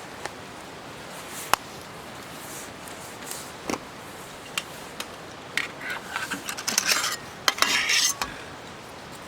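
Gear being handled: scattered sharp clicks and light metallic clinks, then a busier run of clattering and rattling from about five and a half to eight seconds in.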